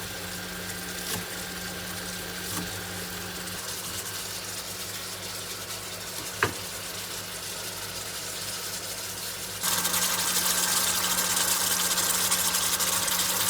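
Kitchen cooking sounds: a steady electric hum, with a single click about six seconds in. About ten seconds in a louder steady hiss sets in, then stops abruptly near the end.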